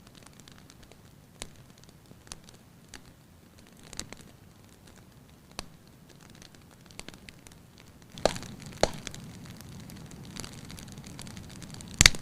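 Wood fire crackling in a fireplace: scattered small snaps over a soft hiss, with a few sharper, louder pops about two-thirds of the way in and again near the end.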